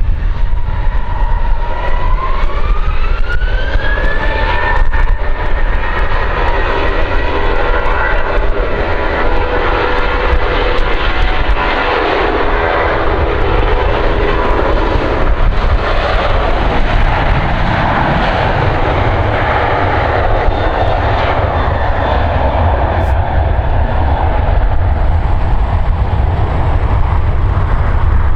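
Jet aircraft engines spooling up, their whine rising in pitch over the first few seconds and then holding steady, as a loud roar builds to a peak mid-way: an aircraft powering up for takeoff.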